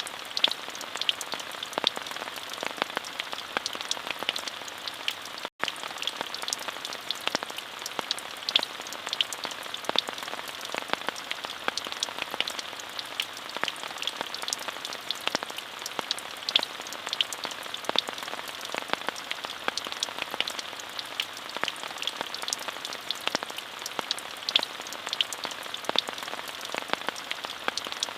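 Steady rain falling, an even hiss full of many small, sharp drop taps. It drops out for an instant about five and a half seconds in.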